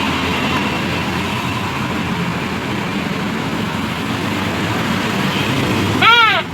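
A New Year's paper trumpet (terompet) blown once, briefly, near the end: a loud buzzy toot whose pitch rises and falls. Before it there is only steady vehicle noise.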